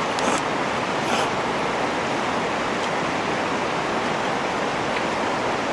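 Steady rushing noise like flowing water from a stream, with a couple of faint light clicks in the first second or so.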